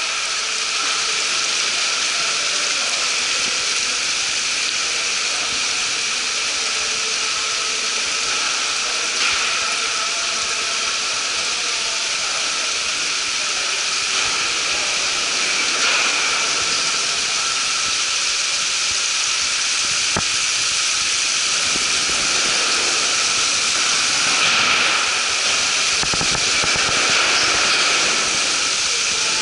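Steady loud hissing rush of water and air running through live-fish holding tanks, with faint steady tones from pumps and a few brief clicks.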